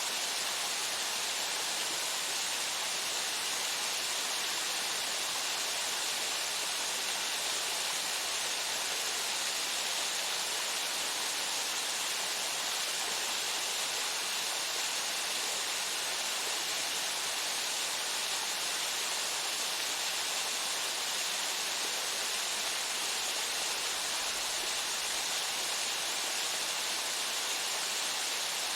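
Waterfall: a steady, unbroken rush of falling water, strongest in a high hiss, with no other sounds over it.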